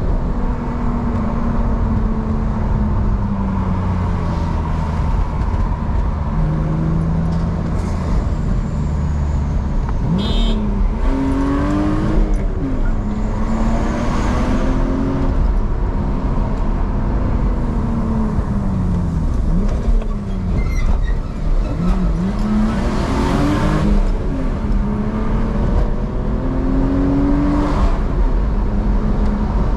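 BMW E46's engine running on the move, its pitch rising and falling several times as the revs climb and drop, over a steady low road rumble.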